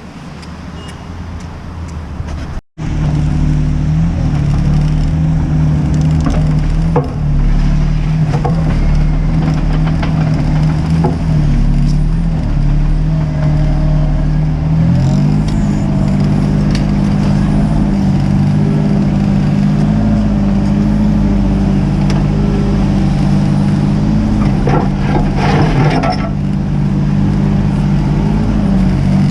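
Mini excavator's diesel engine running steadily at working revs, stepping up in pitch about halfway through, with scattered knocks and scrapes over it. The sound cuts out for an instant near the start.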